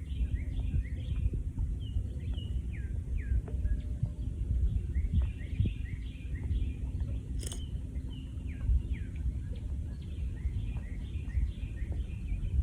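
Birds calling in quick series of short falling chirps, over a steady low rumble of wind noise. A single sharp click comes about halfway through.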